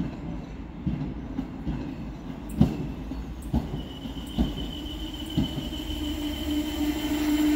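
Diesel railcar rolling into the station: its wheels knock over rail joints and points several times over a low rumble. About halfway through, a high steady squeal sets in as it slows down.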